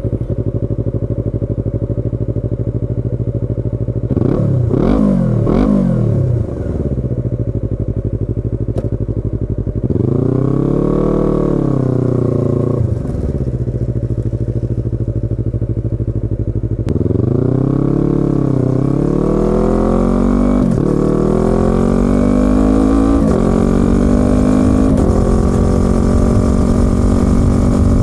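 Yamaha YZF-R25's 250 cc parallel-twin engine and exhaust idling, blipped twice quickly about four seconds in. It is then revved up and back down twice, and over the last several seconds the engine speed climbs in small steps.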